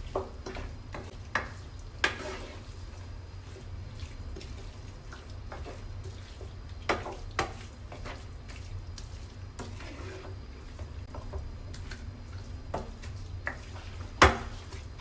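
Chicken pieces frying in oil with an onion-and-masala paste, a steady sizzle as they are stirred in the pan, with a low hum underneath. A utensil knocks against the pan several times, loudest once near the end.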